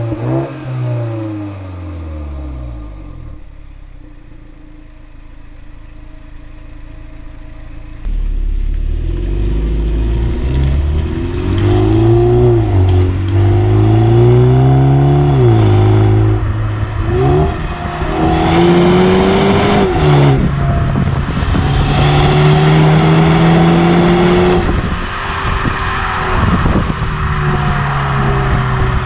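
BMW 330i's 2.0-litre turbocharged four-cylinder (B48) engine: revs fall away at the start and it runs quietly for a few seconds. About eight seconds in it comes hard on the throttle and accelerates, its note climbing and then dropping sharply at several upshifts.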